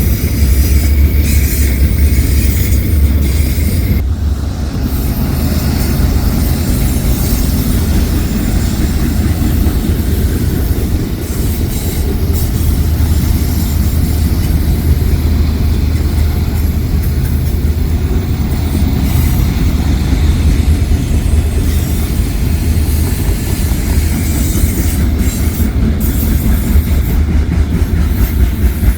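Freight train cars rolling past with a steady low rumble and high metallic wheel squeal.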